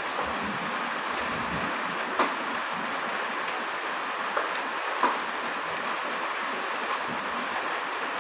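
Steady heavy rain falling, with a few sharper drop impacts standing out about two, four and five seconds in.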